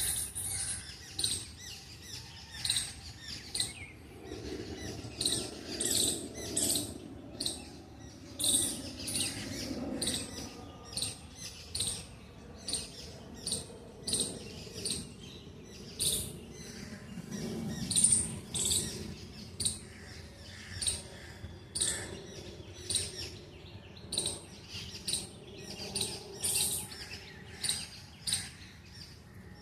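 Small birds chirping over and over, short sharp high-pitched calls coming about once or twice a second.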